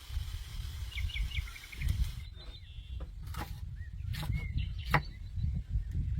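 Outdoor ambience with a low rumble of wind on the microphone and small birds chirping, broken from about three seconds in by several sharp clicks and knocks.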